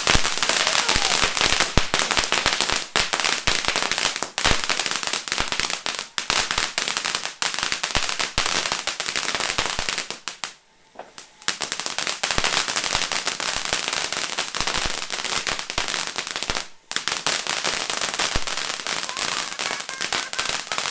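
A ground firework crackling and fizzing with a dense stream of rapid sharp pops. It drops out for about a second halfway through and for a moment again later, then stops at the end.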